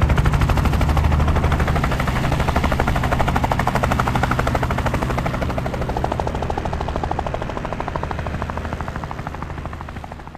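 Helicopter rotor and engine running, a fast, even chop of the blades over a steady low drone. It slowly gets quieter and fades out at the very end.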